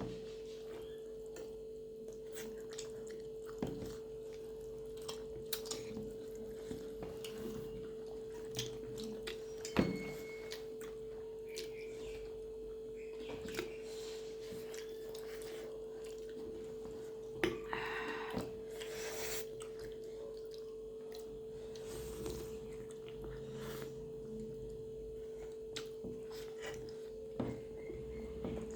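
Quiet eating sounds: scattered small clicks and knocks, as of hands and utensils on plates, with a couple of short rustles, over a steady hum.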